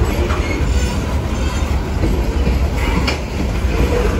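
Freight train of open-top hopper cars rolling past: a steady low rumble of steel wheels on rail, with a couple of clacks as wheels cross rail joints.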